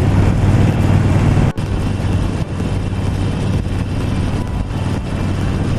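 Harley-Davidson 48 Sportster's air-cooled V-twin running steadily under the rider, heard from a helmet camera with road and wind noise, broken by a momentary dropout about a second and a half in.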